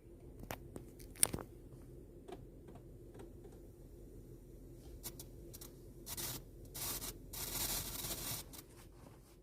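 Static from a VW Golf Mk7's speakers, caused by a fault in the MIB infotainment unit: scattered crackling pops, a sharp one about a second in, then bursts of hiss near the end.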